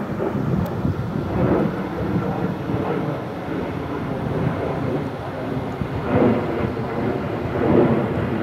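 Departing jet airliner's engines at takeoff power: a deep, rough rumble that swells about six and again about eight seconds in.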